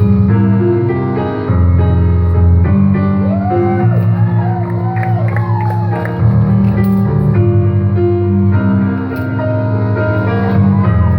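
Live band music: sustained keyboard chords over a heavy bass line, with a singer's voice gliding through a run of short rising-and-falling notes in the middle.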